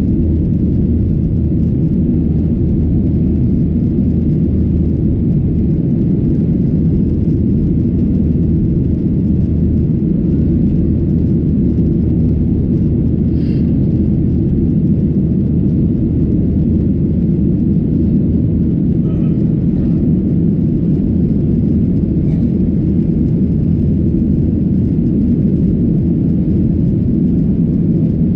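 Steady, loud cabin rumble of a Boeing 737-800 in flight, its two CFM56-7B engines running at a constant setting, heard from a window seat. There are a few faint ticks from the cabin.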